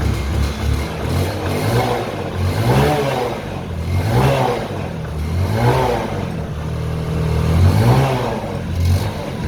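Bajaj Discover 125 motorcycle's single-cylinder four-stroke engine revved in repeated blips, each rising and falling in pitch, about every second and a half.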